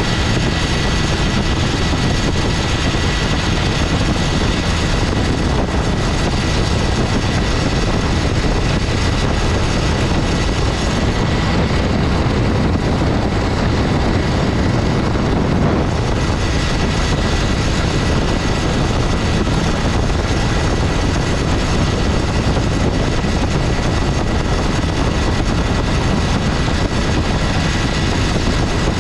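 1960 Gale Buccaneer 15 hp two-cylinder two-stroke outboard motor running steadily under way. It holds its power once warm, which the owner takes to mean the reported compression loss was really a dropped cylinder from a poorly rebuilt magneto, now fixed.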